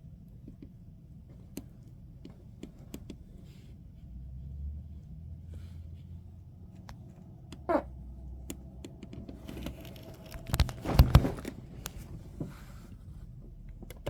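Thunderstorm heard from indoors: a low rumble of thunder for a few seconds, with scattered sharp taps throughout. About eleven seconds in comes a louder cluster of sharp cracks, the loudest part.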